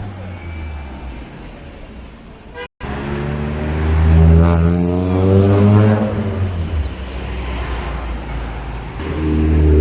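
Loud car engines driving past on a road. After a short cut, one car passes loudly with its engine note shifting in pitch, and another loud engine comes in near the end.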